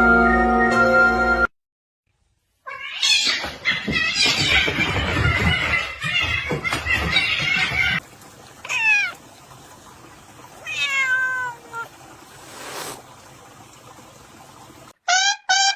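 A cat meowing: two drawn-out meows, each falling in pitch, after a louder jumbled stretch of noise.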